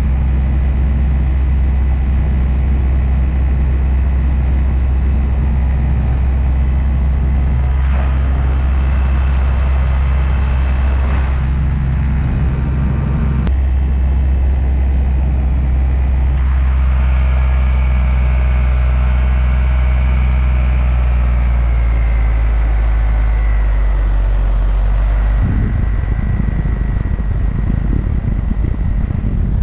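Paramotor engine and propeller running steadily at cruise, with a high propeller whine that sags slightly in pitch over the second half. Near the end the steady engine note gives way to a rougher, more uneven low rumble.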